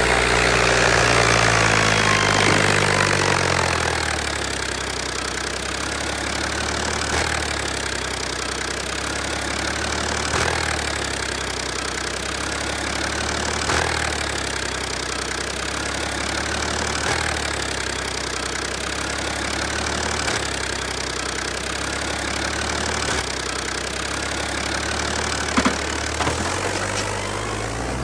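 Tractor engine running, its pitch falling from higher revs to a steady idle over the first few seconds, then rising again near the end. Two sharp knocks about two seconds before the end.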